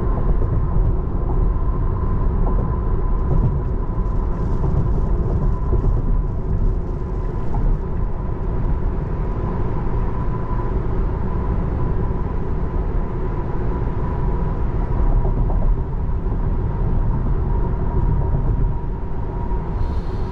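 Steady road and tyre noise heard from inside the cabin of a 2024 Tesla Model 3 Long Range cruising at an even speed, a dense low rumble with a faint, steady high whine over it.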